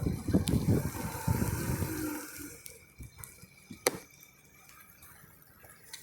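Wind buffeting the phone's microphones through foam hair-roller covers while riding an e-bike, a gusty low rumble that drops away about two seconds in to a quieter hiss. A single sharp click comes near the four-second mark.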